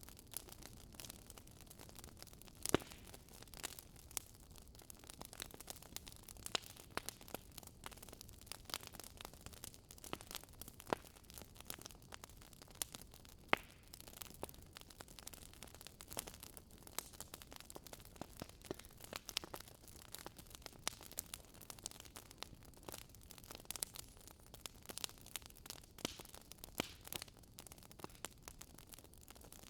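Campfire crackling: wood burning with irregular sharp pops and snaps over a soft steady hiss, a couple of louder pops standing out.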